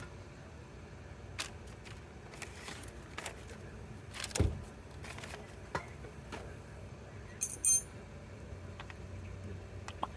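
Scattered clicks and knocks of metal parts or hand tools, with a heavier knock about four seconds in and a brief metallic jingle near the eight-second mark.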